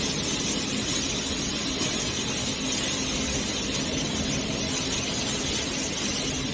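Electric truck drive axle with its motor running steadily: an even whirring noise with a faint low hum underneath.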